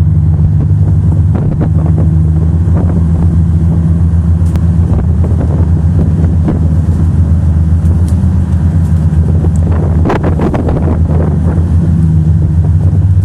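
Motorboat engine running steadily with a low, constant drone, under heavy wind noise on the microphone. Sharp knocks are scattered through, most of them about ten seconds in.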